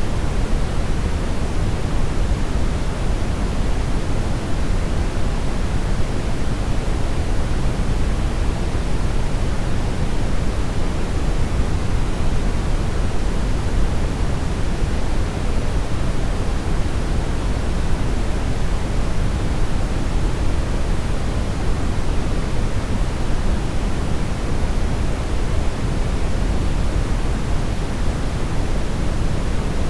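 Brown noise: a steady, even rumbling hiss, heaviest in the bass and falling away toward the treble, with no change throughout.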